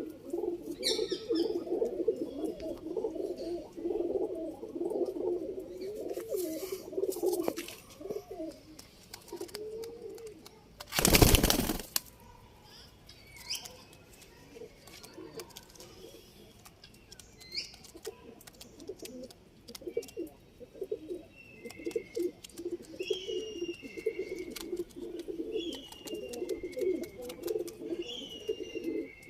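Domestic pigeons cooing in a dense, continuous chorus, fading out after about eight seconds and building again in the last ten. Around eleven seconds in there is one loud rustling burst, and short high chirps come and go through the second half.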